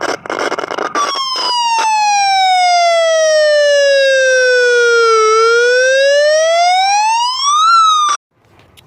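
Older aftermarket electronic siren sounding through its loudspeaker. It opens with a short harsh burst, then gives one slow wail that falls in pitch for about four seconds and rises again before cutting off suddenly near the end.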